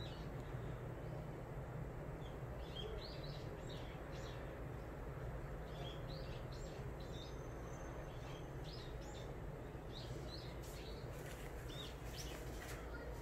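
Small birds chirping, many short calls scattered throughout, over a steady low background hum.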